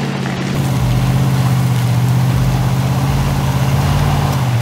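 Y62 Nissan Patrol's V8 engine pulling under load through deep mud, the revs and level rising about half a second in and then holding steady.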